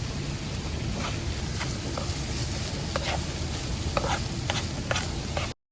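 A pan of steak strips, bell peppers and onions sizzling while a utensil stirs the cheese through it, with short scraping clicks against the pan. The sound cuts off abruptly near the end.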